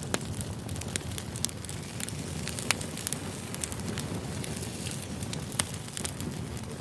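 Wood fire burning: a steady low rush with frequent sharp crackles and pops, a few of them louder, about a third of the way in and again past the middle.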